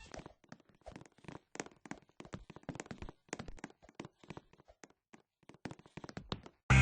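Faint, irregular light taps and clicks, several a second, with no music or speech.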